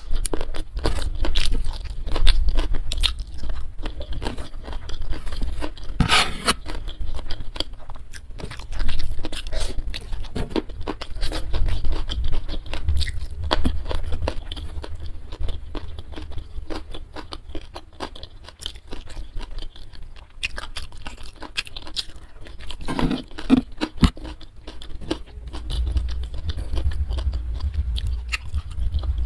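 Close-miked chewing of rice, steamed mackerel tuna and sambal eaten by hand: many quick mouth clicks and crunches, with fingers scraping through the food.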